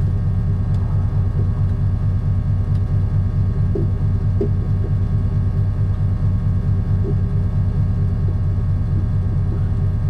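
Steady low rumble of a moving vehicle: engine and road noise running evenly with a fast, regular pulse, and a few faint taps about four seconds in.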